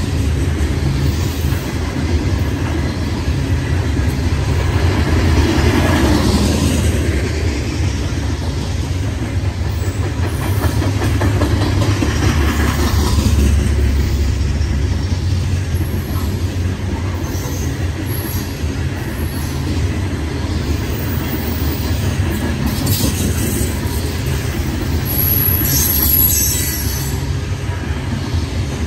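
Loaded coal hopper cars rolling past on steel rails: a steady heavy rumble with the clatter of wheels over rail joints. A few thin, high wheel squeals come near the end.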